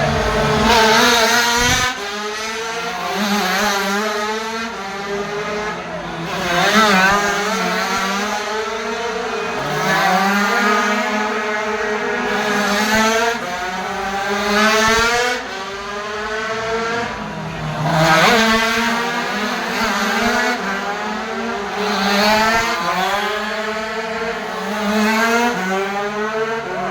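Several 80cc racing motorcycles at high revs, their engine notes climbing and dropping repeatedly as they accelerate, shift and ease off, with a few engines overlapping.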